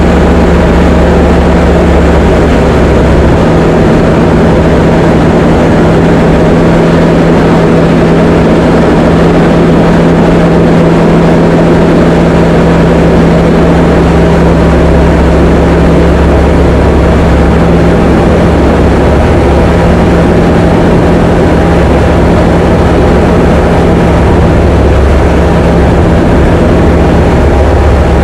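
Diamond DA20 light aircraft's piston engine and propeller heard from inside the cockpit: a loud, steady drone with a constant low hum, the lowest part of the sound shifting slightly about three seconds in.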